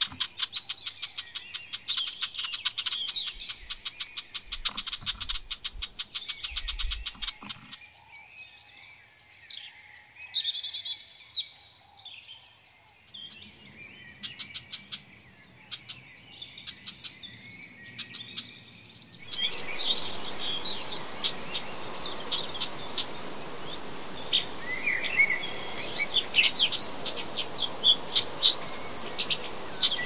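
Small birds chirping and calling, opening with a rapid ticking trill for the first seven seconds or so. From about two-thirds of the way through, a steady hiss of background noise sits under denser, sharper chirps.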